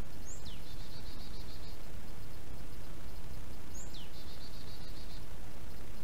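A songbird sings twice, about three and a half seconds apart: each song is a high note sweeping steeply down, followed by a quick high trill lasting about a second. A fainter bird trills in the background, over a steady low rumble of outdoor noise.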